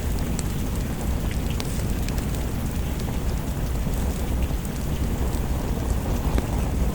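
Steady rain over a constant low rumble, with scattered small sharp ticks throughout.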